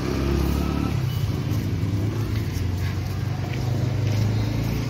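Car engine running steadily at low speed, a low even hum, as the car rolls in.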